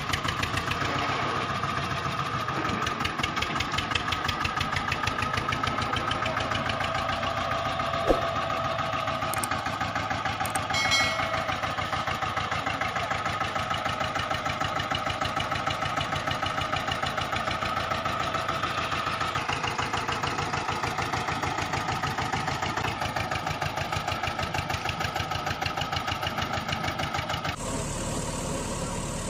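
Tractor engine running at a steady idle with a rapid, even chugging; the engine sound changes abruptly near the end.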